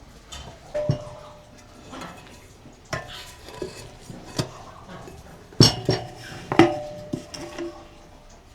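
Metal utensils clinking and scraping against dishes, a string of sharp clinks with a short ring, the two loudest about five and a half and six and a half seconds in.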